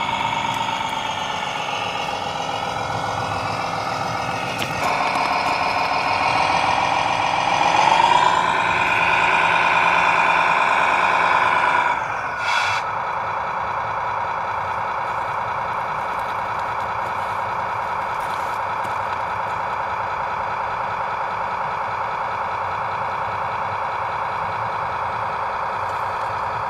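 Radio-controlled model truck running with a whining, pitched drone that climbs in pitch partway through, then falls away with a short hiss and settles into a steady drone.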